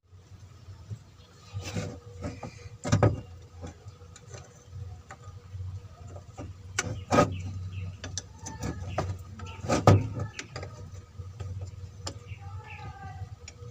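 Scattered clinks and knocks of hand tools and metal engine parts being handled, loudest about three seconds in and again about ten seconds in, over a low steady hum.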